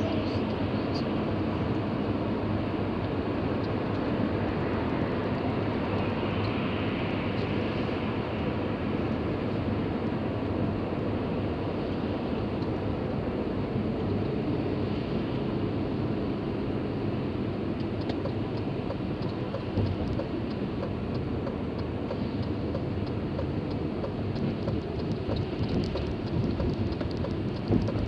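Steady road and engine noise of a moving car, with a few faint ticks late on.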